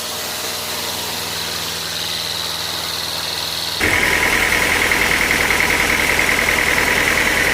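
Sawmill machinery running steadily with a thin high whine. About four seconds in it suddenly gets louder, with a stronger, lower, warbling whine and a rattling underneath.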